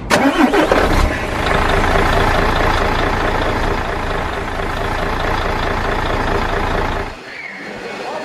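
Engine sound of a radio-controlled model truck starting up and running steadily, then dropping away sharply about seven seconds in.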